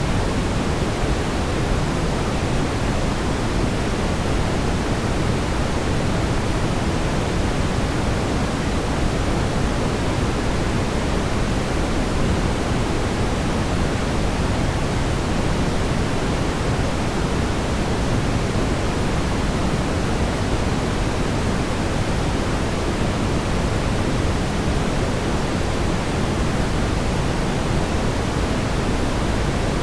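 Steady brown noise: an even, unchanging rumbling hiss, heaviest in the low end, with no rhythm or events.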